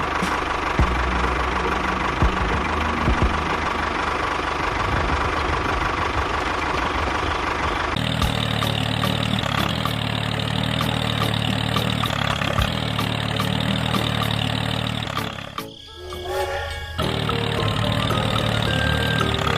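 A small engine running steadily, likely the mini tractor's motor. The sound changes abruptly about eight seconds in and drops out for about a second near sixteen seconds, then resumes.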